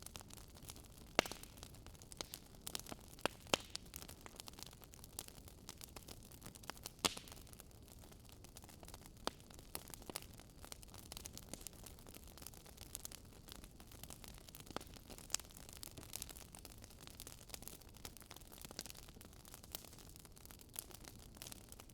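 Fire crackling in a fireplace: irregular sharp pops and snaps over a faint steady hiss.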